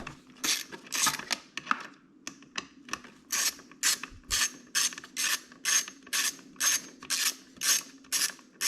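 Hand socket ratchet being worked on the motorcycle: a few uneven strokes, then from about three seconds in a quick, even run of ratcheting clicks, about three a second.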